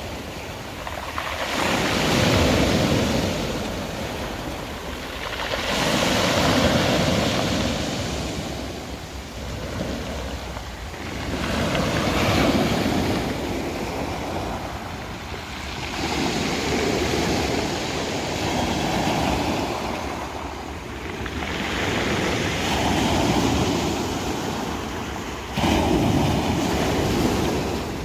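Sea waves breaking and washing on the shore, swelling and falling away every few seconds.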